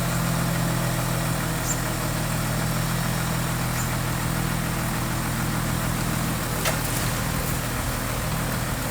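Heavy-equipment diesel engine idling steadily with a low hum, which weakens near the end, with a sharp click about seven seconds in.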